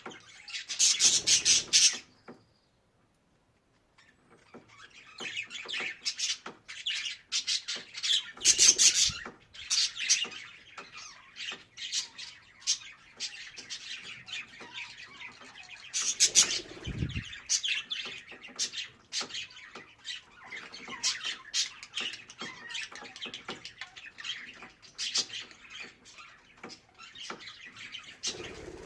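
Budgerigar warbling and chattering: fast, continuous chirps and squawks, with a brief silent break about two seconds in and a low thump near the middle.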